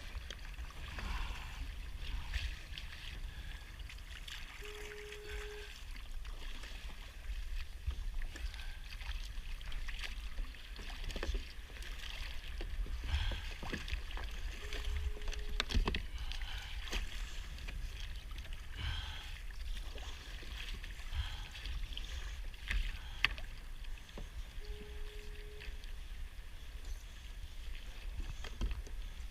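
Kayak being paddled, the paddle blades dipping and splashing in the water at irregular intervals, over a steady low rumble of wind on the microphone. A faint steady tone lasting about a second sounds three times, about ten seconds apart.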